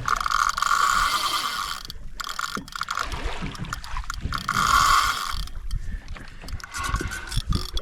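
Penn Slammer spinning reel's drag buzzing in two long runs and a few short ones as a hooked fish pulls line off against it.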